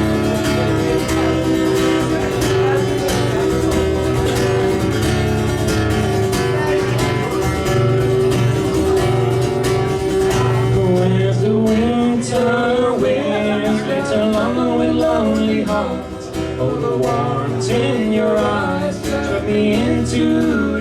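A band plays the instrumental intro of a folk-rock song, built on a strummed acoustic guitar with bass. About halfway through, a wavering melody line comes in over the chords.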